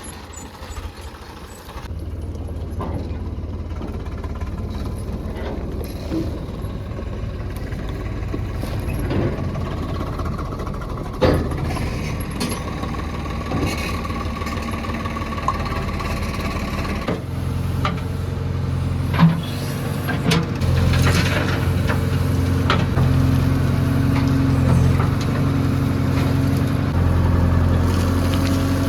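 JCB 3DX backhoe loader's diesel engine running steadily, then running harder and louder a little over halfway through. Two sharp knocks stand out over it, the second near the rise.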